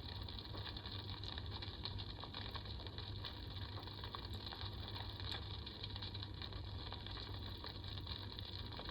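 Mist-flame humidifier diffuser running with a steady low hum and an irregular faint crackle, in the manner of its campfire ambient sound.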